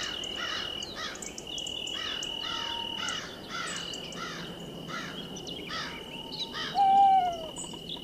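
Night forest ambience: a steady high insect trill that breaks off twice, over rhythmic chirping about twice a second. About seven seconds in comes a short, louder falling call.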